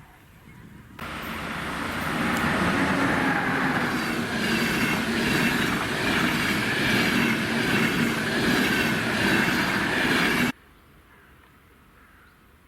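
A train passing close by on the track, its wheels and running gear making a loud, steady rush with a few sustained tones. It starts abruptly about a second in and cuts off suddenly near the end.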